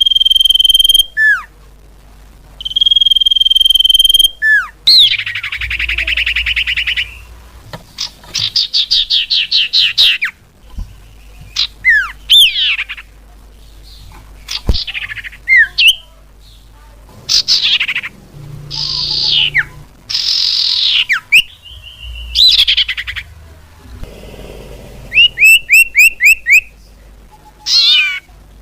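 Common iora calling and singing: long, steady whistled notes that each end in a quick downward slur, then a buzzy rattling trill, runs of fast repeated notes and a string of descending slurred whistles.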